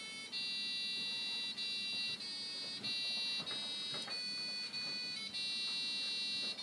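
Fisher & Paykel washing machine's electronic beeper playing a tune in demo mode: a run of held buzzy notes, changing pitch about every half-second, as a national anthem melody.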